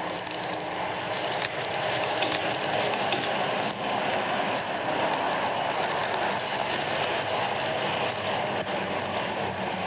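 Steady road and wind noise inside a police car driving at speed, with a faint engine hum underneath.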